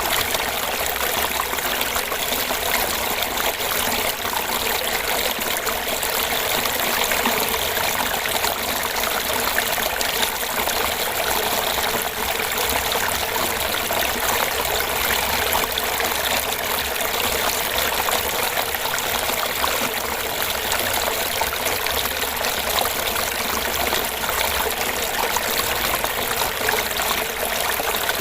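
Small fish-pond waterfall, water trickling and gurgling steadily.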